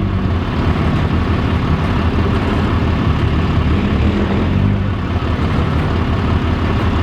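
Diesel engine of a Peterbilt semi truck running steadily with a low, even rumble.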